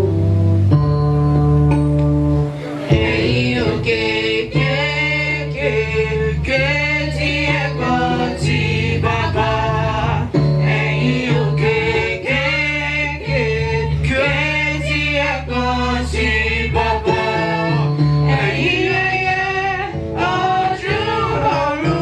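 Gospel-style church music: group singing over instruments with a steady bass, the voices coming in about three seconds in.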